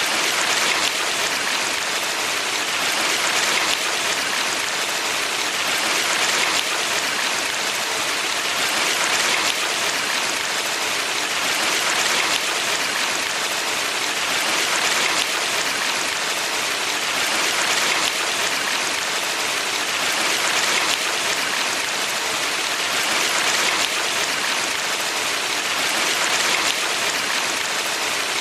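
Valley stream water rushing in a steady hiss, swelling gently about every three seconds.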